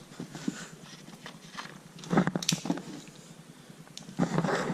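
A few scattered clinks and knocks of metal hand tools, with a loud cluster about two seconds in, as an 8mm socket or wrench is fetched and handled.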